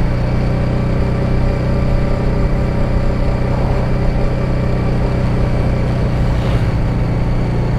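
Honda Deauville's V-twin engine running at a steady, even speed while riding, with wind rush over it.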